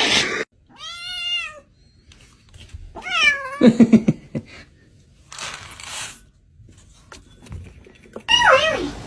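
A hungry cat meowing for food: three meows, around one second in, about three seconds in and near the end. The middle meow is longer and falls in pitch. A short burst of noise comes about five and a half seconds in.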